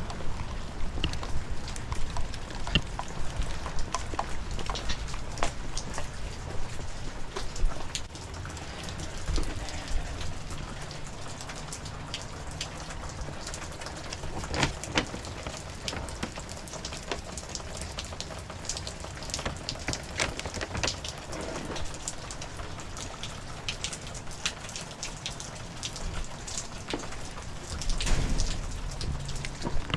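Heavy rain falling, with many separate drop hits over a steady wash of noise and a low rumble that eases off about eight seconds in.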